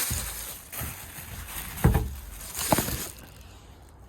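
Rustling handling noise with two sharp knocks, one a little under two seconds in and one near three seconds; it quietens after about three seconds.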